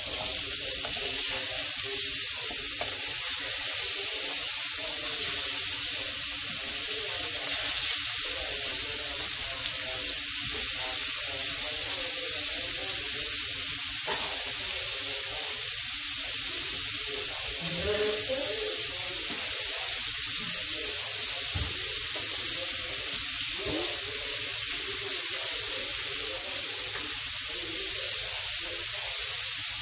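Salmon fillets frying in hot oil in a pan, a steady sizzle just after being flipped from the skin side onto the flesh side.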